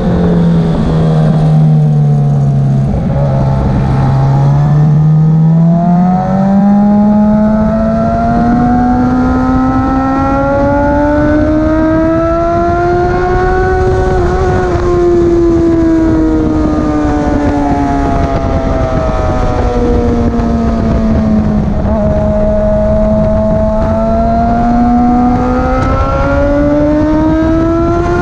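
Motorcycle engine running at speed. Its pitch sinks over the first few seconds, climbs steadily for about ten seconds, eases down, then climbs again near the end, over a steady rushing noise.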